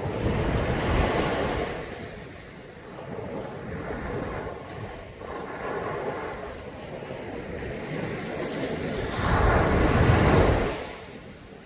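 Caribbean Sea surf breaking on a beach: a wave crashes at the start and washes out, smaller washes follow, and a second, louder wave breaks about nine seconds in and dies away near the end.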